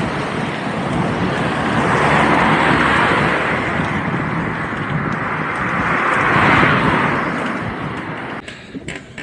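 Road vehicles passing on a mountain road: a rushing tyre and road noise that swells twice and then fades out near the end.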